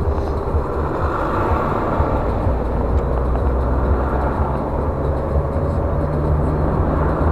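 Car driving along a highway, its engine and tyre noise a steady deep rumble heard from inside the cabin.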